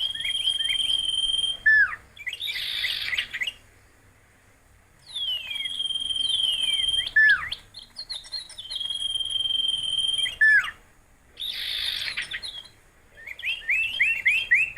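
Bird song: long held whistles and sharply down-slurred notes, broken by two harsh raspy bursts and ending in a fast run of repeated chirps. A thin high buzz, like an insect, sits above the song in places.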